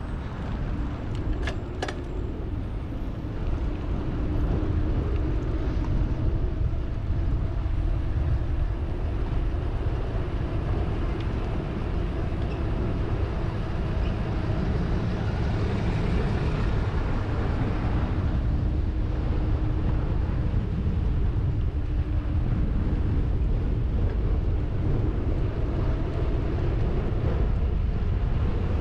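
Steady low rumble of wind buffeting the microphone of a camera on a moving bicycle, mixed with road and traffic noise. A few sharp clicks come one to two seconds in.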